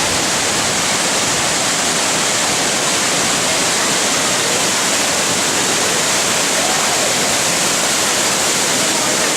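Palaruvi waterfall's water falling and splashing, a steady loud rush.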